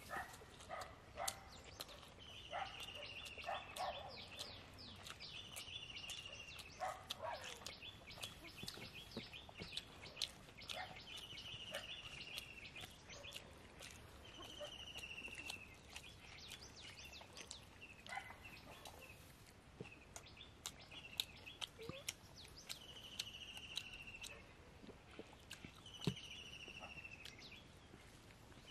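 A bird repeating one whistled note that falls slightly in pitch, each about a second long, every few seconds, over scattered close clicks and crunches of people eating.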